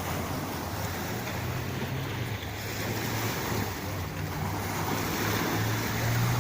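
Sea waves washing on the shore, a steady rush that grows slightly louder, with wind rumbling on the microphone.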